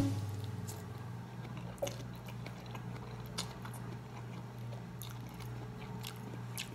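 Close-up eating sounds of a person chewing and slurping noodles, faint scattered smacks and clicks of the mouth over a steady low hum.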